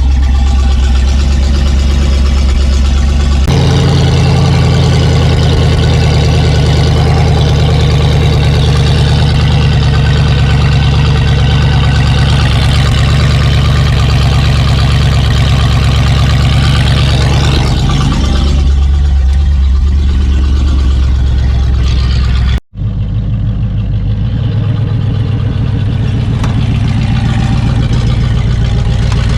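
The Jeep J10 truck's engine running steadily. The sound changes abruptly at cuts about three seconds in and near twenty-three seconds, with a brief dropout at the second.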